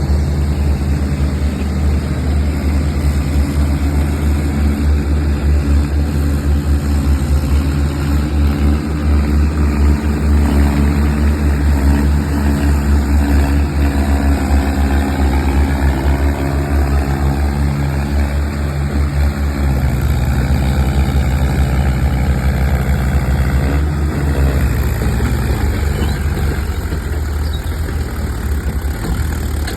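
Tractor diesel engine running steadily with a deep, even note. Its pitch pattern shifts about two-thirds of the way through.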